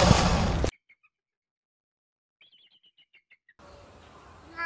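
A loud, rough noise cuts off abruptly less than a second in. Then, in near silence, comes a quick run of faint, high bird chirps, and a low background hiss begins near the end.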